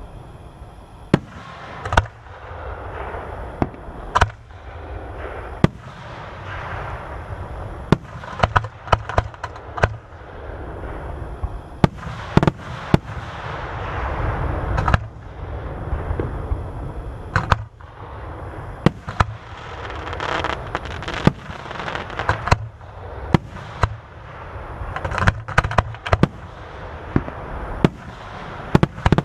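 Aerial fireworks display: shells bursting in sharp bangs throughout, some single and some in rapid clusters of crackling reports, over a continuous low rumble from the ongoing barrage.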